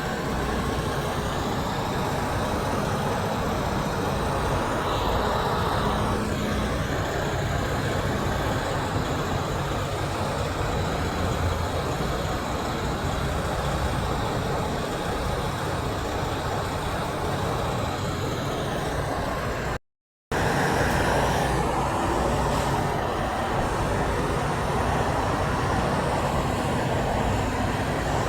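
Steady road traffic noise from passing vehicles, heavy trucks among them, with no horn standing out. The sound cuts out completely for about half a second roughly twenty seconds in.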